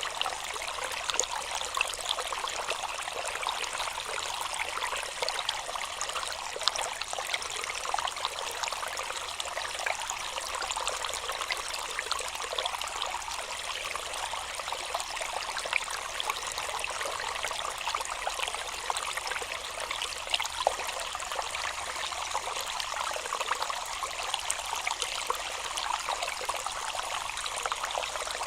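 Steady rush of flowing river water, with small splashes and trickles.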